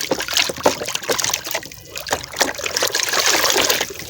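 Water trickling and splashing, uneven and continuous, as a muddy toy truck is washed by hand.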